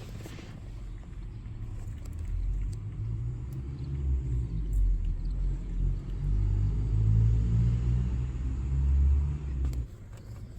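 An uneven low rumble that builds over a few seconds, stays loud for several seconds and cuts off suddenly near the end.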